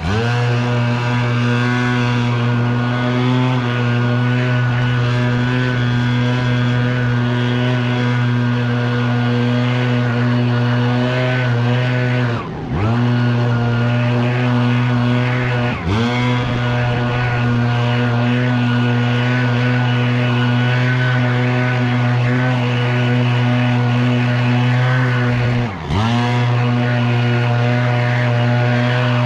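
Leaf blower running steadily at high speed, its engine pitch and level dipping briefly three times and coming straight back up.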